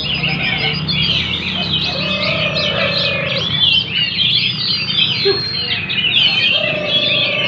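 Many caged songbirds singing at once, a dense unbroken chatter of fast overlapping chirps and trills.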